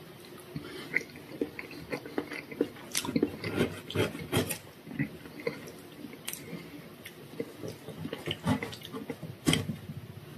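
Chewing a mouthful of tart, with wet mouth clicks and smacks and crackling of the pastry. Later a plastic fork and knife scrape and cut into the crumbly tart, with a sharp click near the end.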